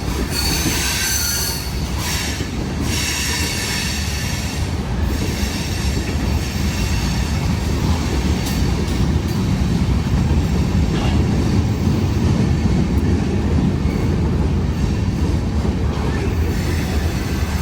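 CSX freight train's cars rolling slowly past: a steady low rumble of wheels on rail, with high-pitched wheel squeal in the first few seconds.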